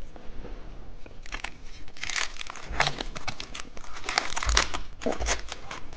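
A candy wrapper being crinkled and torn open by hand, in quick crackling bursts that start about a second in.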